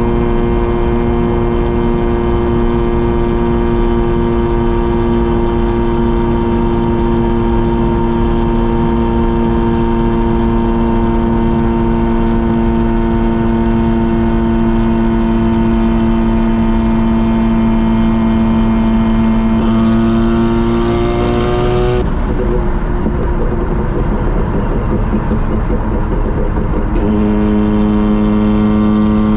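Mazda RX-7 rotary engine and exhaust droning at a steady cruise. About twenty seconds in the pitch lifts slightly, the steady tone breaks off into a rough rumble for a few seconds, then returns steady at a slightly lower pitch.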